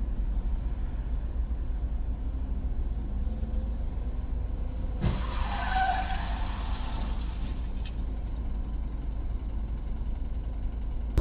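Car interior and road noise recorded by a dash cam: a steady low rumble. About five seconds in there is a knock, followed by a few seconds of hissing noise with brief tones in it.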